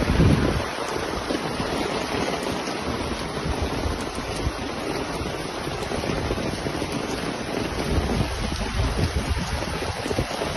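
Water rushing steadily, a dense noise, with wind buffeting the microphone in a strong gust at the start.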